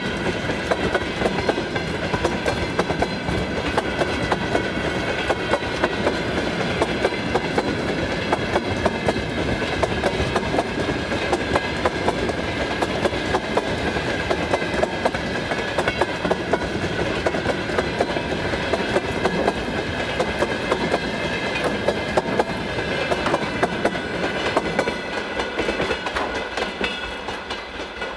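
Freight train of tank cars rolling past, wheels clicking rapidly and steadily over the rail joints, with a steady high whine from the wheels over it. The sound dies away over the last few seconds.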